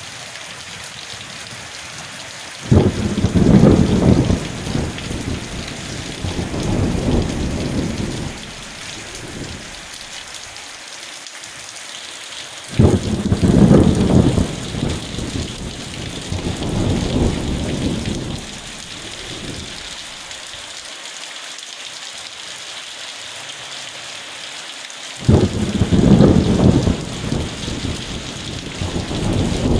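Steady rain hiss with three rolls of thunder. Each starts suddenly, a few seconds in, near the middle and near the end, and rumbles on for several seconds in two or three swells before fading.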